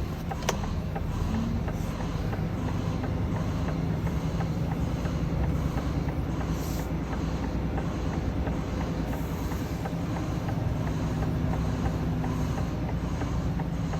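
HGV truck's diesel engine running steadily at low revs while the truck is manoeuvred, with one sharp click about half a second in.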